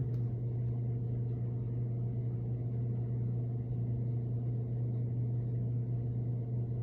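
A steady low hum, unchanging throughout, with no speech.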